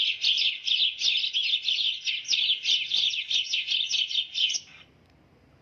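Sparrow chirping: a fast, continuous run of high chirps, about four a second, that stops near the end.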